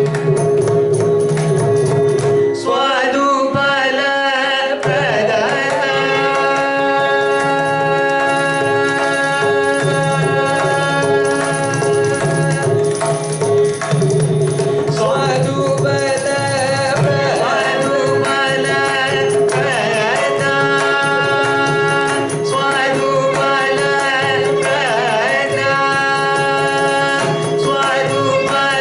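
Carnatic vocal music: voices singing melodic phrases over a steady drone, accompanied by mridangam strokes.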